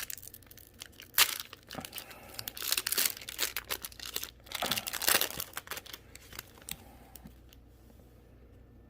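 Foil Yu-Gi-Oh! booster pack being torn open and crinkled by hand, in irregular crackling bursts that die away about seven seconds in.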